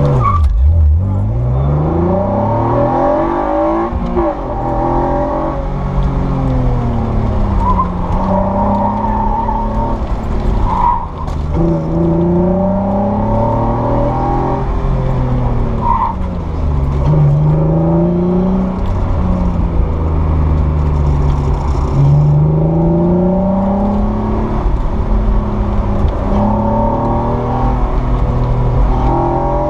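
Acura NSX V6 engine revving under hard acceleration. Its pitch climbs and drops several times over the half-minute as the revs rise and fall.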